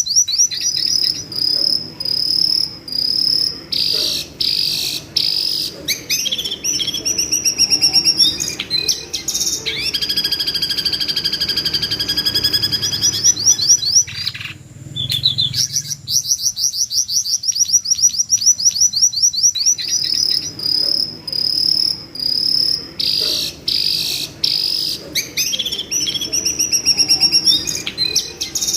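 Jongkangan bird calling: fast, high, screeching trills and chattering notes in phrase after phrase, with a short break about halfway.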